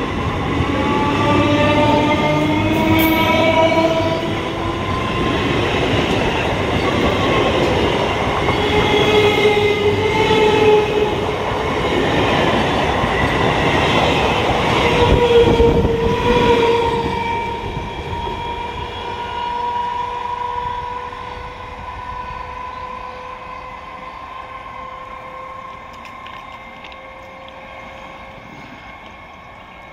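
Electric multiple unit (EMU) local train running close by: a dense rumble of wheels on track with several whining tones that drift in pitch. About two-thirds of the way through the sound falls away steadily as the train draws off, and a thin steady whine lingers.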